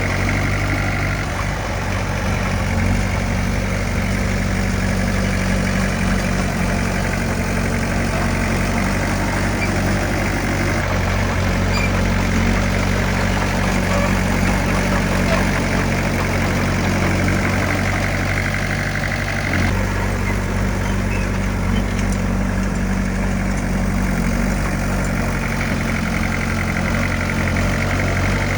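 Diesel engine of a heavy earthmoving machine running steadily, with a deep, even hum. Its tone shifts slightly a couple of times.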